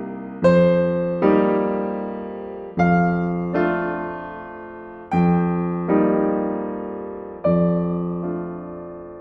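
Slow, gentle piano music: soft chords struck about every one to one and a half seconds, each ringing on and fading before the next.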